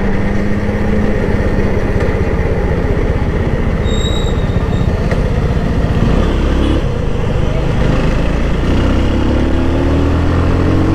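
Benelli motorcycle engine running at road speed under a steady rush of wind noise. Its note climbs gradually in the last few seconds as the bike accelerates.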